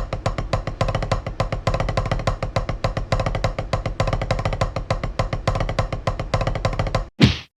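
Drumsticks playing a drum rudiment: rapid, evenly spaced strokes at a steady level. A brief loud rushing sound comes just before the end.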